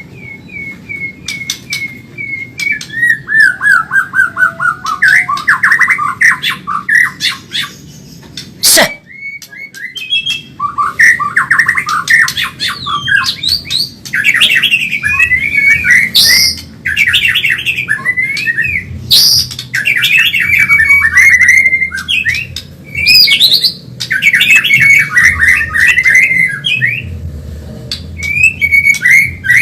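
White-rumped shama (murai batu, Medan type) singing a fast, continuous song: runs of rapid repeated whistled notes, falling series and quick trills, phrase after phrase with short gaps. There is a single sharp click about nine seconds in.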